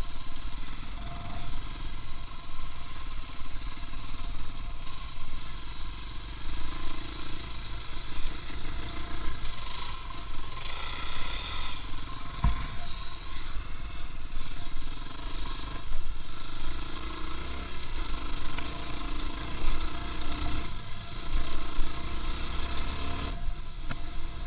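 Motor vehicle running, a steady low engine and road rumble, with a brief hiss about ten seconds in and a single thump shortly after.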